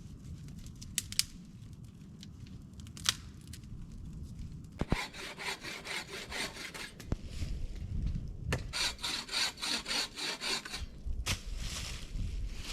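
Hand saw cutting through wood in quick back-and-forth strokes, about four a second, in three spells with short pauses between them. A few sharp wooden clicks come before the sawing starts.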